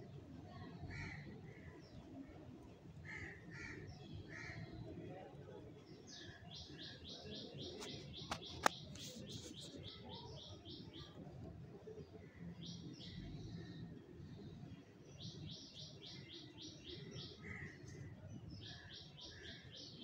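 A bird singing in several runs of quick, evenly repeated high notes, each run lasting a few seconds, with softer scattered chirps between them. A sharp click sounds about eight and a half seconds in, over a low background rumble.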